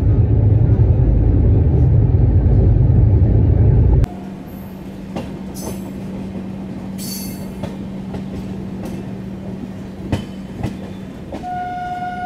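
Passenger train running: a loud low rumble that cuts off suddenly about four seconds in, then a quieter steady run with sharp wheel clicks and a few brief high squeals. A train horn starts near the end and holds one steady note.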